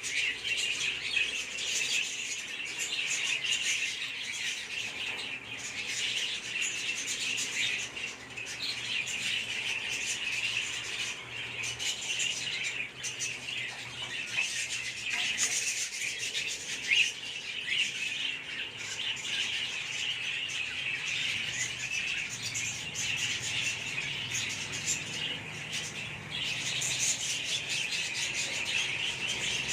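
Lovebirds chirping and squawking in a dense, unbroken chatter, with one sharp click about two-thirds of the way through.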